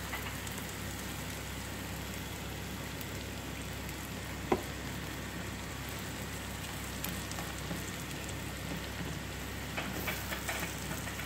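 Scrambled eggs and cooking cream sizzling steadily in a frying pan, a hiss like light rain. There is one sharp click about halfway, and a few quick taps and scrapes of the spatula against the pan near the end.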